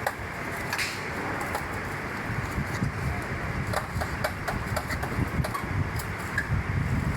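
Rope-factory machinery running steadily: a continuous hum and rumble with scattered light clicks, the rumble growing a little louder in the second half.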